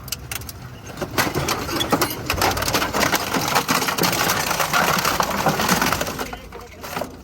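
Heavy-duty industrial shredder tearing through a scrap refrigerator: a dense, loud run of metal and plastic crunching and cracking that builds about a second in and dies down near the end.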